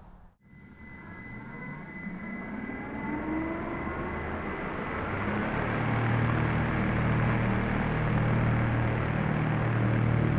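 Electric-powered foam P-38 model plane flying, its motors and propellers making a steady, noisy drone with a low hum, faint pitch glides as the throttle changes; the sound fades in from near silence and grows louder over the first few seconds.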